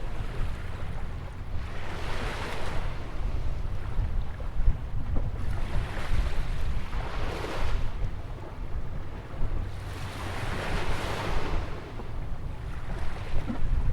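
Atlantic waves breaking and washing up a sandy beach beside a jetty, three surges swelling and fading about four seconds apart. Wind buffets the microphone with a steady low rumble underneath.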